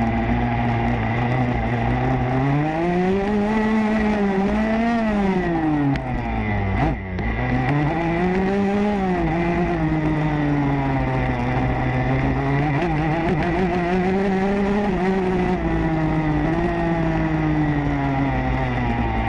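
Motocross bike engine heard from on board, revving up and down as the rider opens and closes the throttle around the track. The throttle is shut off sharply for a moment about seven seconds in, then the engine picks up again.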